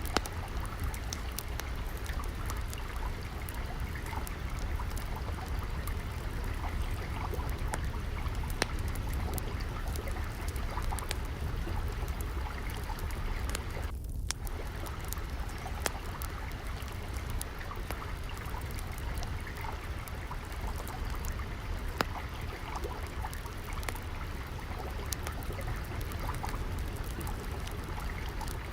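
Steady trickling, flowing water with scattered sharp pops and crackles of a wood fire over a low rumble. The water sound briefly drops out about halfway through.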